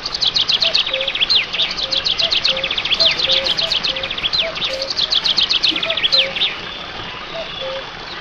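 Small birds chirping in rapid, overlapping runs of quick high notes, busiest for the first six seconds or so and then thinning out. A faint low note repeats about twice a second underneath.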